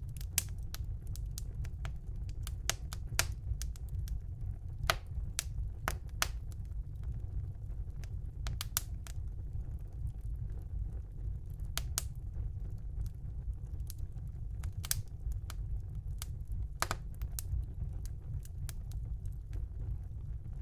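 Wood fire burning in a fireplace: irregular sharp crackles and pops, sometimes several in quick succession, over a steady low rumble.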